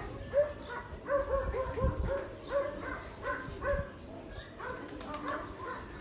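Birds calling: a string of short, similar calls, about two a second.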